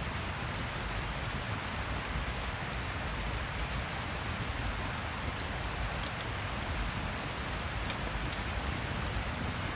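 Steady rain ambience: an even hiss of rainfall with scattered faint, sharp ticks.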